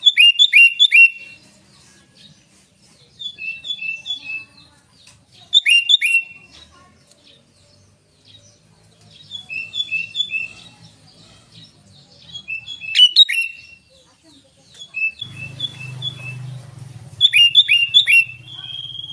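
Sooty-headed bulbul (kutilang) singing: loud groups of three or four quick, sharp notes, repeated every two to three seconds. A low hum starts underneath about fifteen seconds in.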